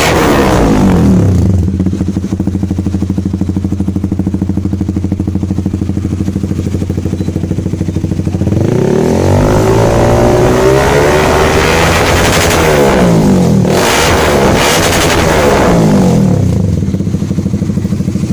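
Honda CBR150R single-cylinder engine running through an R9 GP stainless full-system aftermarket exhaust. It drops from a rev to a steady idle about two seconds in. About eight seconds in it is revved up and held, dips briefly, is blipped again, and settles back to idle near the end.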